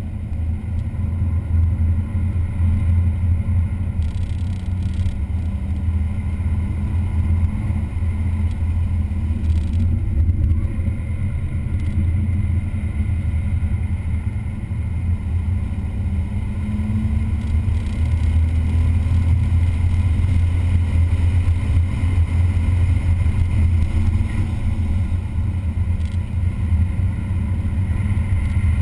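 Car engine running continuously at speed on a race track, with a steady low drone; the engine pitch climbs slowly a little over halfway through.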